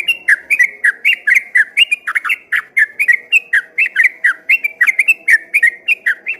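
Sooty-headed bulbul (trucukan) singing a long unbroken run of rapid whistled notes, about four a second, each note sliding between higher and lower pitch.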